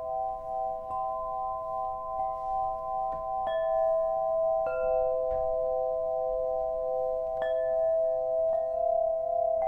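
Crystal heart, a crystal sound-healing instrument, struck again and again so that several sustained tones ring and overlap, one of them pulsing in a slow beat. A new note is struck about five times, each with a brief brighter ring on top.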